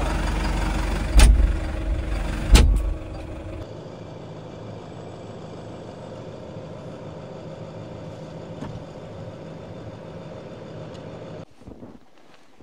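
A vehicle engine running with a low rumble, and two loud thumps about a second and two and a half seconds in. After that a quieter steady engine drone continues, then cuts off abruptly near the end.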